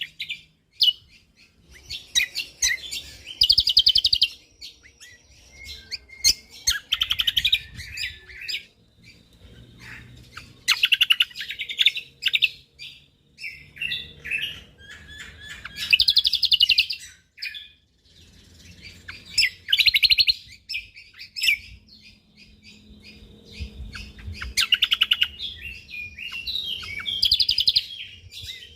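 Cucak kombo (kecial kombo) songbird singing. Its song comes in loud bursts of very fast, high-pitched trills and chirps, each about a second long and recurring every few seconds, with softer twittering between the bursts.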